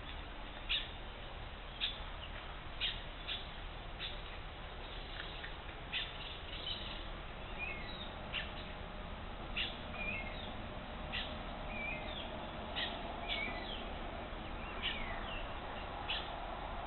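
Wild birds calling: short, sharp notes repeated roughly once a second, mixed with a few short warbled notes, over a faint steady hiss.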